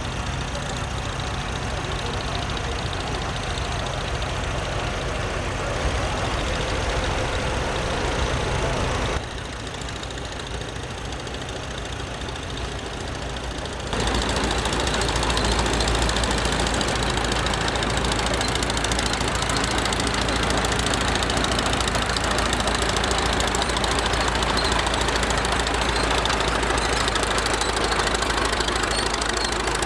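Antique tractor engines running as tractors drive past in a parade, the sound changing suddenly about nine and fourteen seconds in.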